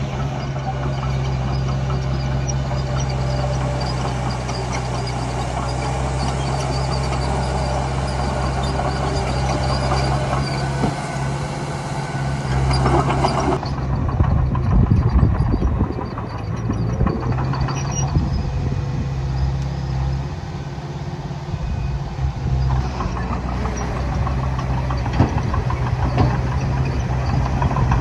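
Diesel engine of a Komatsu D20A bulldozer running steadily under work. About halfway through, the hiss drops away and a rough, uneven rumble takes over for a few seconds.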